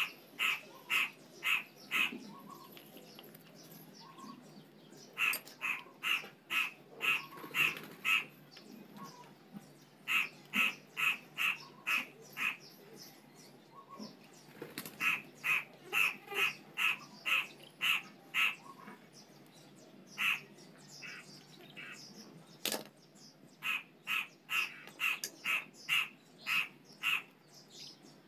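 A bird calling in runs of short, repeated calls, about two a second, five to eight calls to a run with pauses of a few seconds between runs.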